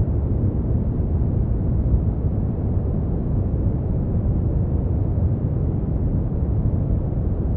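Steady synthetic brown noise: an even, deep rushing sound weighted to the low end, with no treble and no changes.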